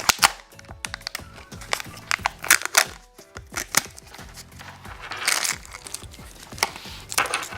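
Plastic packaging of a Kinder Joy egg being handled: crinkling and sharp plastic clicks, with a denser rustle about five seconds in, over quiet background music.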